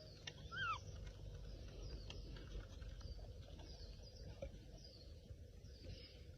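Faint animal calls: a couple of short, high, arching chirps about half a second in, then fainter high falling squeaks over a low rumble.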